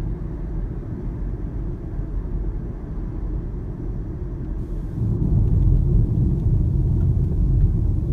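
Toyota Prius PHV on the move: steady low road and tyre rumble heard inside the car, growing louder about five seconds in.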